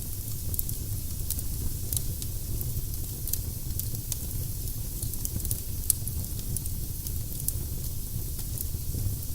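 Firewood burning in a fireplace, crackling with frequent small pops over a low steady rumble; one sharper pop about six seconds in.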